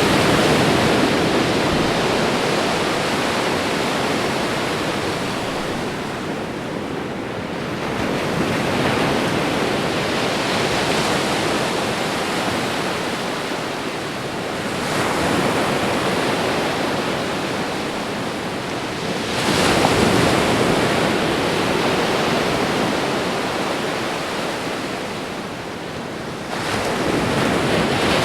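Ocean surf: waves crashing and washing in without a break, the sound swelling with each breaking wave about every five to seven seconds and easing between.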